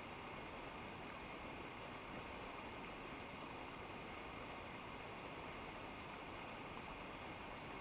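Steady, even rush of a mountain river or waterfall, with no changes.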